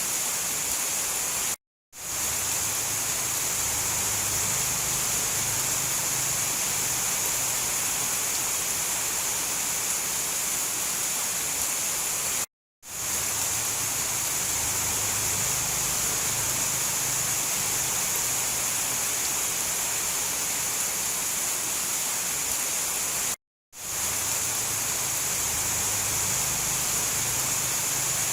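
Steady rain noise: an even hiss with a brighter high band. It cuts to silence for a split second three times, about every eleven seconds.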